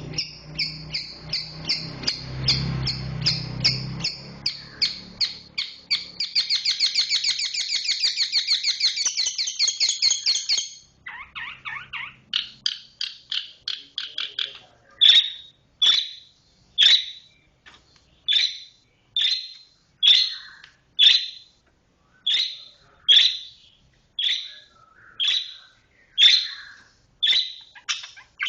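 Long-tailed shrike (cendet) singing: a run of quick repeated notes speeds into a fast, tight rolling trill about six seconds in. After a brief break about eleven seconds in, it goes on with harsh, evenly spaced calls about one a second.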